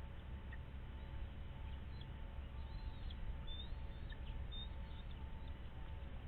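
A few faint, short high-pitched bird calls, thin chirps and gliding whistles, about two to five seconds in, over a steady low rumble and a faint steady hum.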